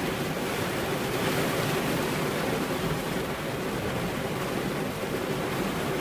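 Rain falling steadily, an even hiss with no distinct thunder claps.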